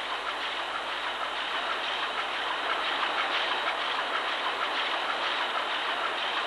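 Engine-room noise of a large two-stroke crosshead marine diesel engine running: a steady, dense mechanical clatter with rapid ticking, getting slightly louder.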